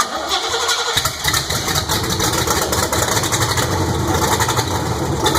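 Chevrolet 350 V8 of a 1971 Camaro cranked by the starter. It catches about a second in and runs steadily on fuel sprayed into the intake, since no fuel tank is fitted.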